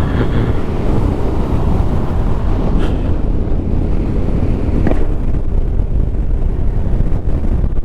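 Yamaha Ténéré 700's parallel-twin engine running steadily while riding, heard under heavy wind rush on the helmet-mounted microphone.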